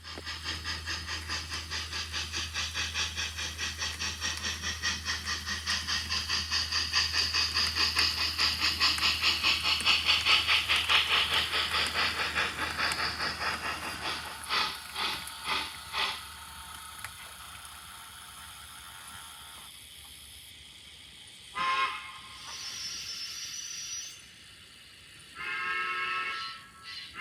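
HO scale model train running past on layout track: a fast rhythmic clatter over a steady low motor hum that swells, peaks about ten seconds in and fades away. Then come several short horn-like blasts, the last one long, near the end.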